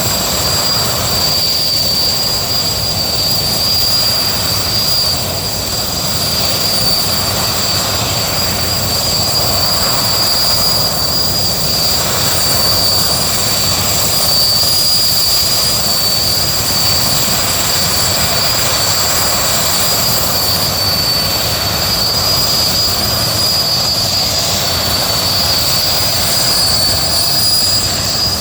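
Sikorsky S-64 Skycrane helicopter's twin turbine engines and rotor running, with a steady loud rush and a constant high-pitched turbine whine.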